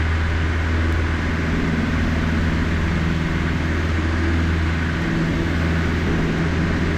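Cessna 152's four-cylinder Lycoming engine and propeller running steadily at full power in the initial climb just after lift-off.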